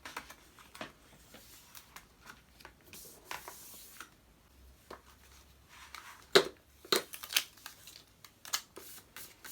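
Paper handling, then a series of sharp clicks from a corner punch cutting rounded corners into journal pages. The loudest click comes about six seconds in, with more following over the next three seconds.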